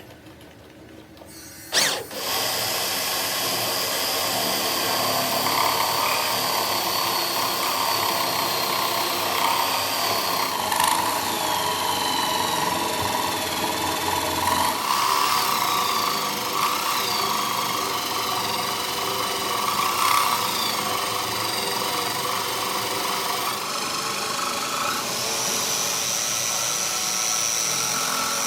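Handheld power tool working metal during a ring gear repair, starting with a sharp hit about two seconds in. It runs steadily with a high whine whose pitch dips now and then under load, and stops right at the end.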